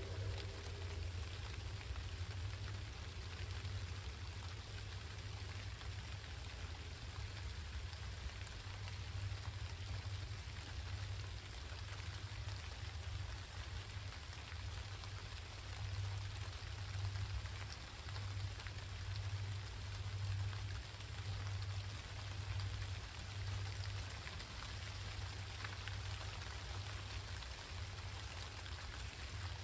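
Steady rain falling, with a low rumble underneath that swells and fades.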